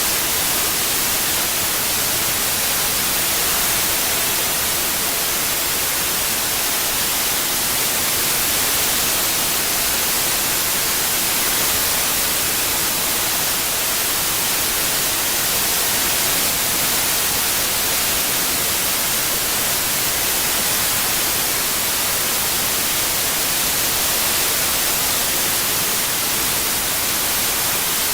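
Synthetic white noise: a steady, even hiss weighted toward the high end, with no change in level.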